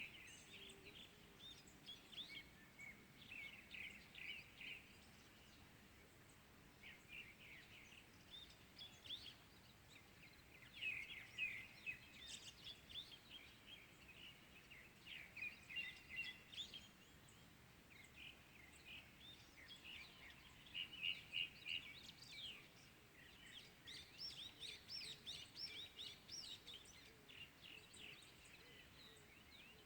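Several small birds chirping and singing in short, overlapping bursts of high notes and trills, faint over a soft background hiss: morning birdsong.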